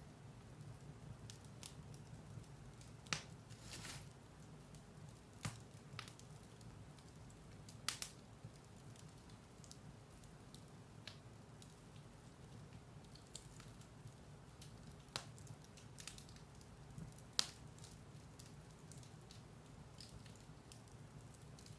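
Firewood burning in a fireplace: faint, scattered sharp crackles and pops every few seconds over a low steady rumble of the fire.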